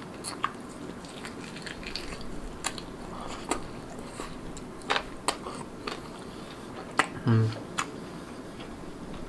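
Close-up mouth sounds of a person biting and chewing soft marinated rabbit thigh meat: irregular wet smacks and clicks, with a brief low hum about seven seconds in.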